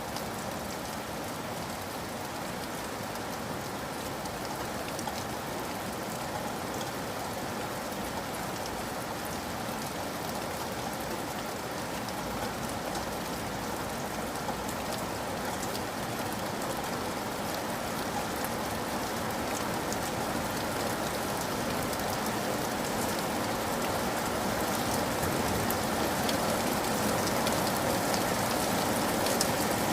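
Steady rainfall, a dense even hiss with fine patter of drops, growing slightly louder over the half minute.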